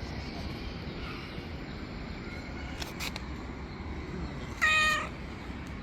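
A hungry stray cat gives one short, loud meow about three-quarters of the way through, over a steady low background hiss.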